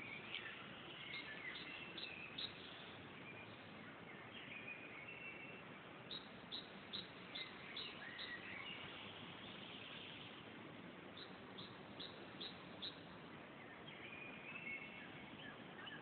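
Small songbirds calling in a tree: three runs of short high notes, about two or three a second, among softer scattered twittering, over a faint steady hiss.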